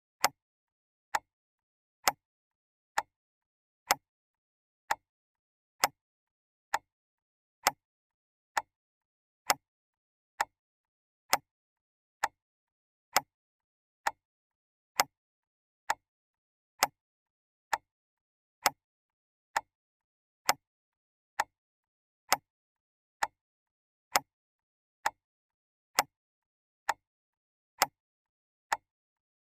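Clock ticking: single sharp ticks, evenly spaced a little under a second apart, with silence between them.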